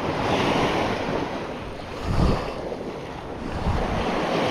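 Wind buffeting the microphone over the wash of shallow surf, with two stronger low gusts about two and three and a half seconds in.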